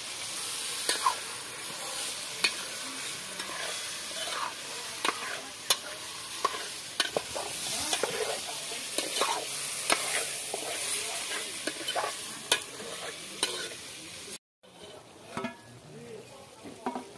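Chicken pieces frying in oil in an aluminium pot, sizzling steadily while a steel spoon stirs them, its strokes scraping and knocking against the pot about once a second. Near the end the sound drops out for a moment and comes back quieter.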